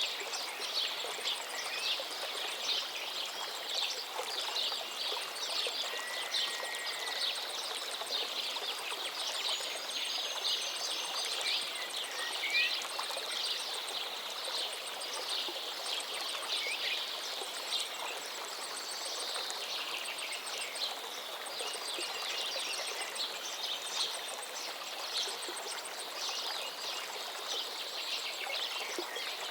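A river flowing steadily, with many small birds chirping and calling over it.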